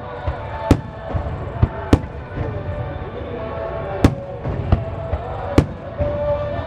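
Firework shells bursting overhead: four loud sharp bangs spaced one to two seconds apart, a few fainter pops between them, over a constant rumble and crackle.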